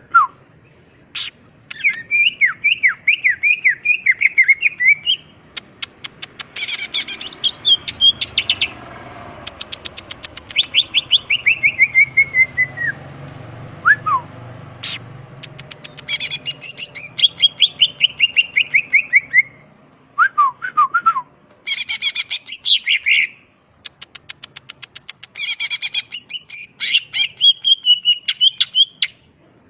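Cucak ijo (green leafbird) singing a varied, loud song: phrases of rapid chirps and fast ticking notes, and runs of whistled notes that fall in pitch, broken by short pauses.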